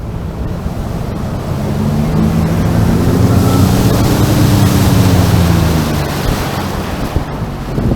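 Sea-Doo Fish Pro jet ski engine running under way over a rush of wind and water. Its pitch climbs over the first couple of seconds, holds, then eases off near the end.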